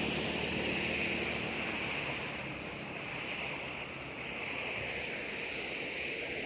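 Steady rushing noise, with a faint low hum in the first second or so.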